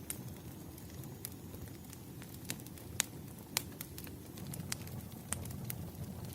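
Wood fire crackling: a steady low rumble with scattered sharp pops, the loudest about three and three and a half seconds in.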